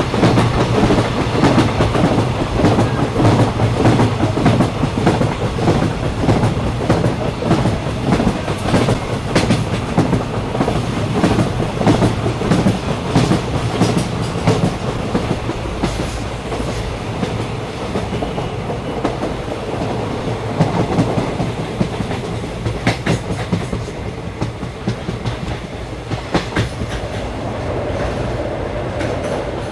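Moving train heard from aboard a carriage: a steady rumble with frequent clicks and clatter from the wheels over the rails. It eases slightly in loudness in the second half.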